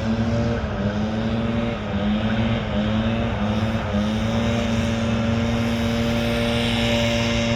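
An engine running, its pitch stepping down and back up several times in the first few seconds, then holding steady.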